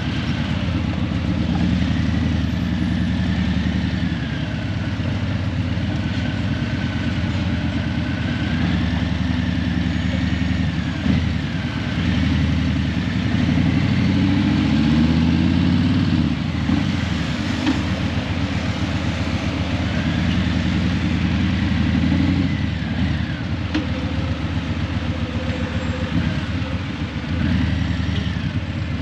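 Harley-Davidson Breakout 117's Milwaukee-Eight 117 V-twin, Stage 1 with Vance & Hines Eliminator 300 slip-on mufflers, running under way; the deep engine note rises and falls several times with the throttle.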